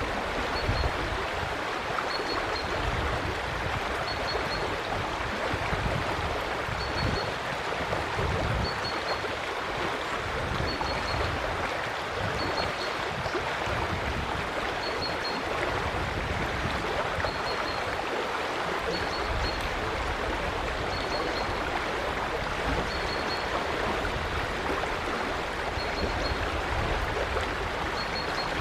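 River water flowing steadily, a constant rushing with a low rumble that swells and fades. A faint, short, high bird call of two or three quick notes repeats about every two seconds over it.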